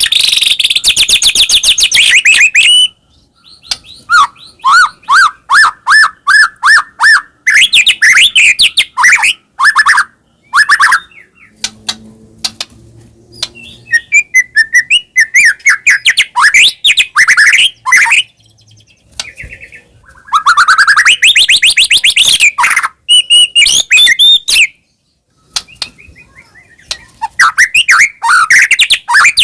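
White-rumped shama (murai batu) singing loudly in a varied song: phrases of fast trills and quick runs of repeated notes, broken by short pauses.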